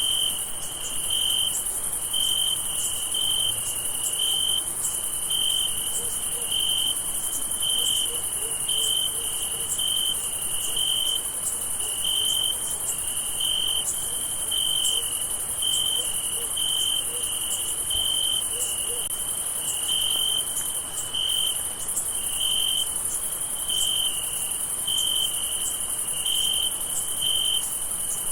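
Night-time cricket chorus: one cricket chirping in an even rhythm, about three chirps every two seconds, over a constant high-pitched trill from many insects.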